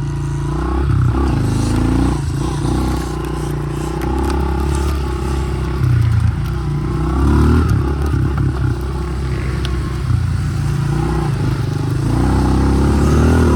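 Honda CRF110 dirt bike's small single-cylinder four-stroke engine running under way, its pitch rising and falling with the throttle.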